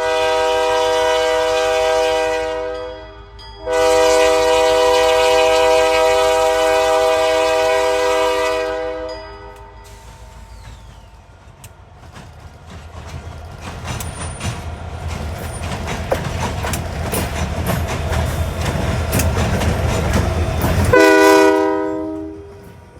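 A CPKC train's locomotive horn sounds a chord in two long blasts over the low rumble of the locomotive. The train then passes with a building rush of wheel-on-rail clatter, and near the end the horn gives one short blast before the sound drops away.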